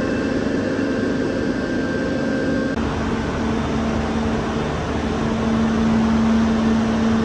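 Steady industrial machinery noise of a power plant: a fan-like rush with a few steady hum tones. About three seconds in the mix changes abruptly: a high tone stops and a lower hum comes in.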